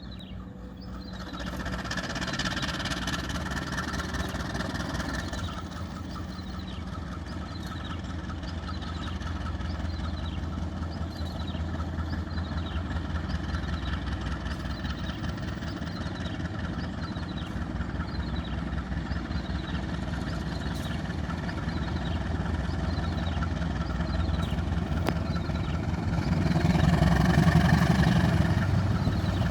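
Diesel locomotive engine running with a steady low rumble that slowly grows louder, swelling near the end. A short falling chirp repeats about once a second above it.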